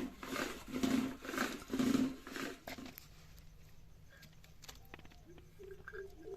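A chicken squawking in loud repeated calls, about two a second, that stop suddenly about three seconds in. Faint clicks and knocks follow.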